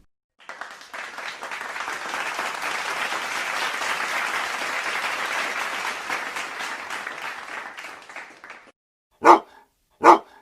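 A crowd applauding for about eight seconds, swelling and then fading out. This is followed near the end by two short dog barks about a second apart.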